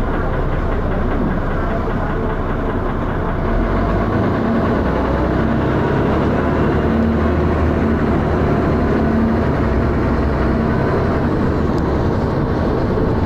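Dennis Arrow double-decker bus heard from inside, its diesel engine running under way with body thrash and rattling. The engine note steps up and gets louder about three and a half seconds in.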